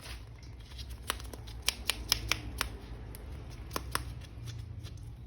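Light, scattered clicks and taps of small plastic toy parts being handled, about ten of them between one and four seconds in, over a low steady hum.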